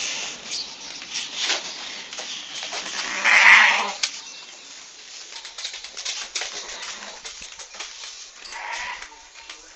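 Goat bleating: one loud bleat about three seconds in and a fainter one near the end, amid scattered short clicks and knocks.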